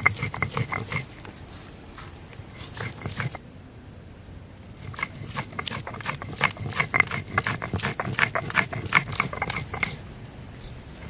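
Spices being ground by hand on a grinding stone: quick scraping and knocking strokes. A short burst comes at the start, another around three seconds in, then a long steady run of several strokes a second from about five to ten seconds.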